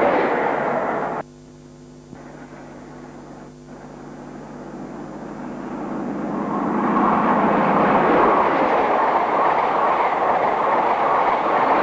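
InterCity 125 high-speed trains passing at speed, on a Super 8 sound camera's rough soundtrack. The rushing of one train breaks off abruptly about a second in at a cut; then a second train's noise swells over several seconds and stays loud as it passes.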